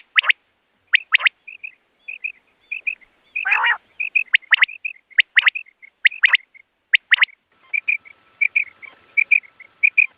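Quail calling: sharp rising calls repeated in twos and threes, with short soft chirps between them. One louder, harsher call comes about three and a half seconds in.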